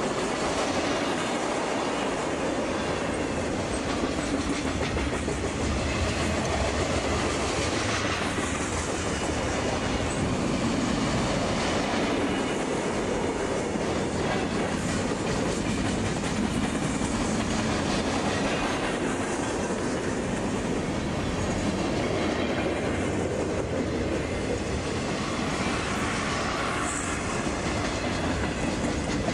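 Freight cars of a long train, including tank cars, covered hoppers and lumber flatcars, rolling past close by at speed: steel wheels running on the rails in a steady, continuous rumble.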